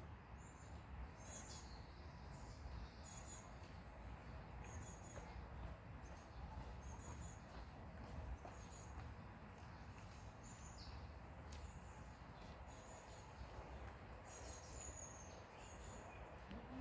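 Faint, short, high-pitched chirps repeating at irregular intervals over a low steady rumble of outdoor background noise.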